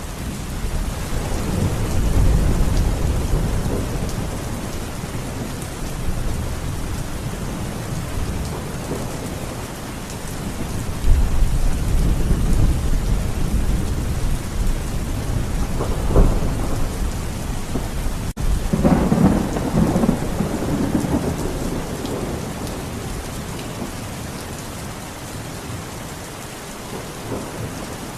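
Steady rain with thunder rolling and rumbling several times, swelling and fading. A sharper clap comes about two-thirds of the way through, followed by another long rumble.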